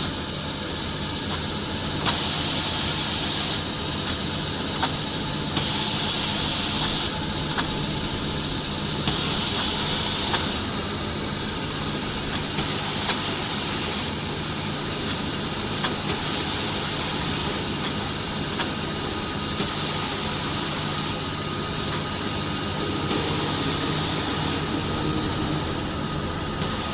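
Automatic maxi-roll paper band saw cutting machine running under load as a paper log is pushed through. A steady hum and high hiss, with a sharper hiss swelling every few seconds and light clicks from the feed mechanism.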